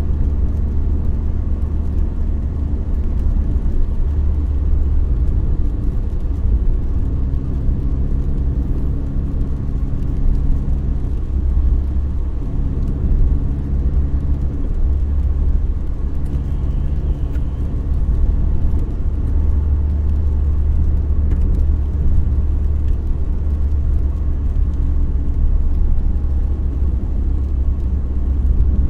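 A car being driven: a steady low rumble of engine and road noise, with an engine hum that comes and goes and changes pitch several times.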